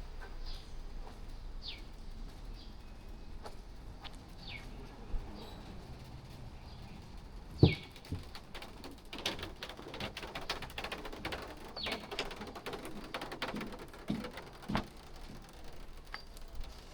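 Outdoor lane ambience with short bird calls that fall in pitch, repeated every second or few. A flurry of light clicks and taps comes in the middle, and one sharp knock about seven and a half seconds in.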